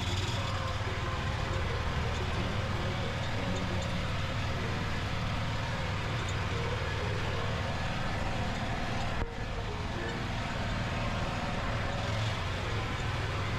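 Tractor engine running steadily, with a brief dropout about two-thirds of the way through.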